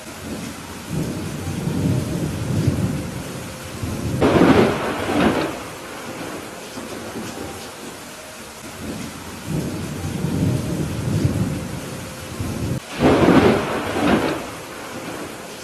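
Steady rain with thunder: a low rumble builds, then a loud crackling thunderclap breaks about four seconds in, and the same rumble and crack come again near the end.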